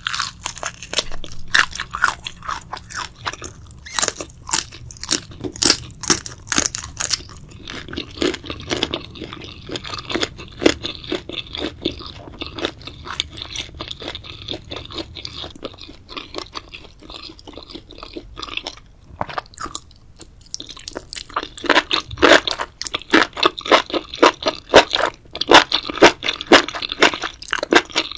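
Close-miked chewing of crunchy food: rapid, crisp crunches, with a brief lull about two-thirds of the way through before the crunching picks up again.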